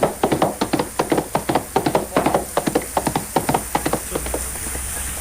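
A rapid run of sharp wooden-sounding knocks and clacks, several a second and uneven, that stops about four seconds in, leaving a steady rushing noise.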